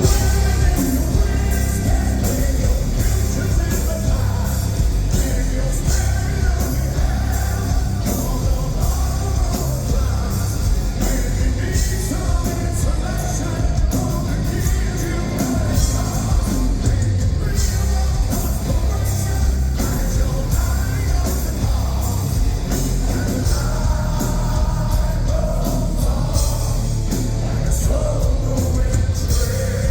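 Heavy metal band playing live in a large hall: a singer's voice over distorted electric guitars, bass and drums, loud and unbroken.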